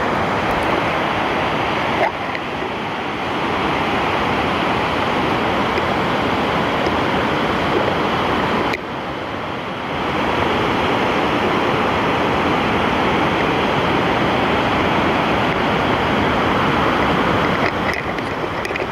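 Steady loud rush of a waterfall's falling water, dipping briefly twice, about two seconds in and again near nine seconds.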